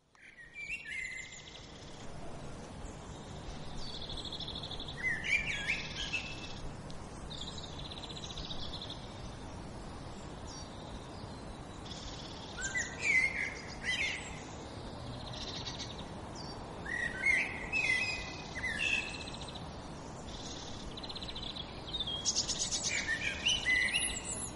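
Songbirds chirping and singing in short phrases and brief trills every second or two, over a faint steady outdoor background noise.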